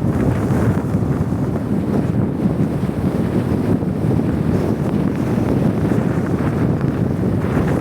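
Blizzard wind blowing hard across the microphone: a loud, steady, low rumble of wind noise that cuts in suddenly.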